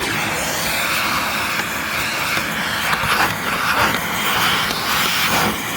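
Vacuum cleaner running, a loud steady rush of air that switches on abruptly.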